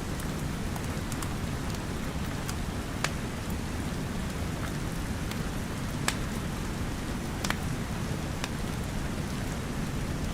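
Steady rain mixed with a crackling wood fire, with a low, even rumble underneath. Sharp pops come every second or two, the loudest about six seconds in.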